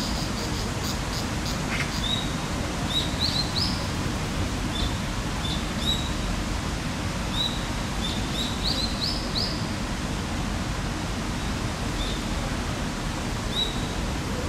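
Short, high chirps rising in pitch, repeating every second or so and bunched in quick runs of three twice, over a steady low outdoor background noise.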